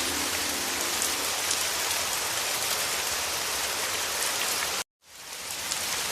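Heavy rain falling steadily, a dense, even hiss of drops. Just before five seconds in it cuts off abruptly to silence for a moment, then fades back up, like the seam of a looped recording.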